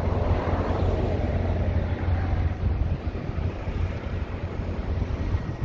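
Wind rumbling on the microphone, with a steady low roar and the sound of passing road traffic fading away in the first couple of seconds.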